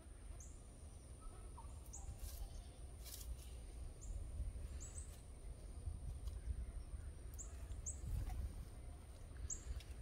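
Faint bird chirps: about eight short, high chirps, one every second or two, over a low rumble and a steady thin high tone.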